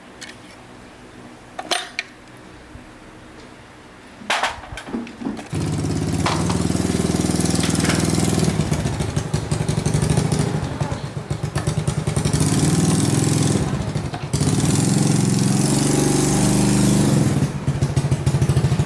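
Four-stroke motorbike engine, its cylinder and piston freshly rebuilt, catching after a brief sputter about five seconds in and then running with a fast even beat, revved up and down several times.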